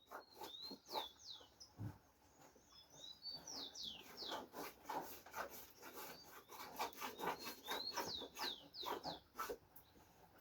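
Faint birdsong: short runs of high, quick notes, each sliding downward, repeated several times. Scattered soft clicks and taps run under it.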